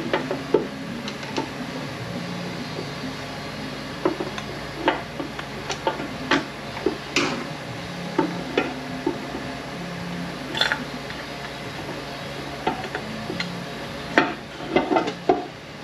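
Irregular metallic clicks and knocks of 9T65 transmission parts being worked loose and handled, with a cluster of quick knocks near the end, over a steady low hum.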